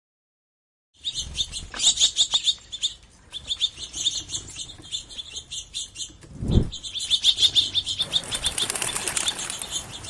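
Birds chirping in quick runs of high notes, starting after a second of silence. A short low boom is the loudest moment, about six and a half seconds in, and a rushing hiss joins the chirps near the end.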